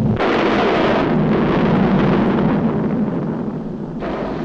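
Cartoon sound effect of a volcano erupting: a loud, continuous rumbling roar of explosions. It swells just after the start and eases off about four seconds in.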